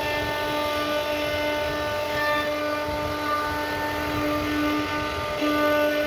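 CNC router spindle running steadily as it carves a wooden headboard, a steady whine over rough cutting noise, with a brief dip in the whine near the end.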